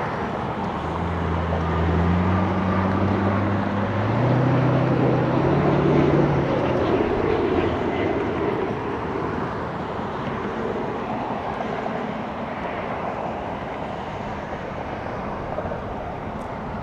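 Embraer E175LR regional jet passing by on its landing. Its engine roar builds to a peak about five or six seconds in and then slowly fades.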